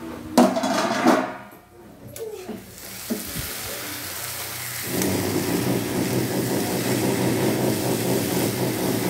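Rice with peas, cashews and spices sizzling in hot oil in a kadai while a spatula stirs and scrapes it, the rice being roasted before water goes in. A loud clatter comes about half a second in, and the sizzling grows louder about five seconds in, then stays steady.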